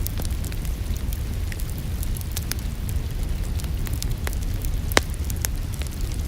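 Wood fire crackling in a fireplace: scattered small pops over a low steady rumble, with one sharper, louder pop about five seconds in. A steady rain hiss is blended in underneath.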